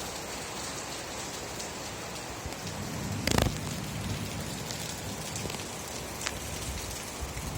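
Steady rain falling, with scattered single drops ticking close by and one louder thump about three seconds in.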